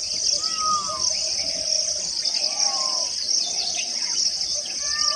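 Steady high-pitched chorus of crickets and other insects, with a bird giving a few short, falling whistled notes over it, about three times.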